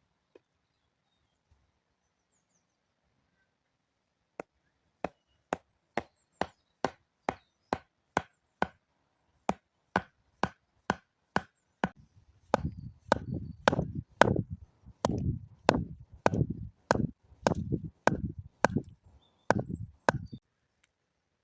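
Wood being chopped with a blade: a steady run of sharp strikes, about two a second. About halfway through the blows grow heavier, each with a deep thud, and they stop shortly before the end.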